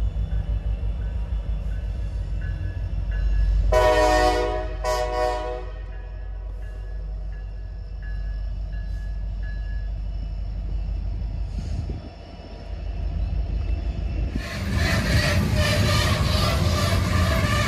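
A train horn gives two short blasts over the low rumble of a diesel locomotive. About fourteen seconds in, a louder rolling noise of rail cars passing takes over.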